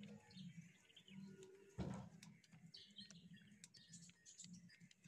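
Faint birds chirping, with a short thump about two seconds in.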